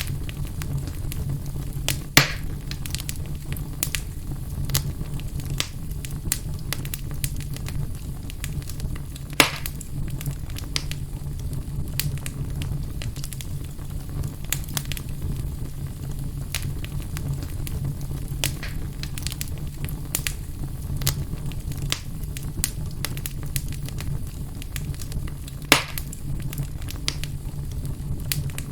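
Fire burning in a fireplace, crackling steadily with frequent small clicks over a low rumble. Three louder pops come about two seconds in, near the middle third and near the end.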